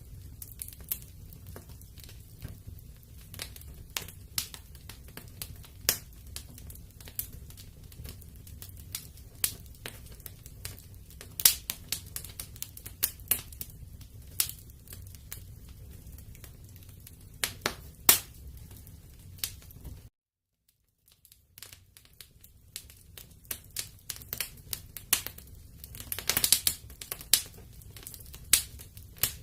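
Wood fire crackling in a fireplace: irregular sharp pops and snaps over a low, steady rumble of burning. The sound drops out completely for about a second around two-thirds of the way through, then the crackling resumes.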